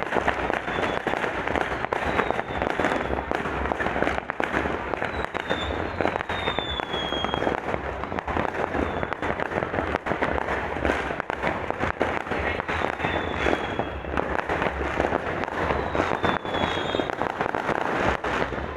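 Fireworks going off in a dense, unbroken barrage of popping and crackling, with several short falling whistles over the top.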